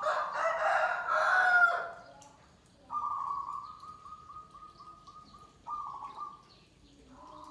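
A rooster crows loudly for about the first two seconds. Then zebra doves (perkutut) coo in pulsing trills, one long phrase and a shorter one about six seconds in.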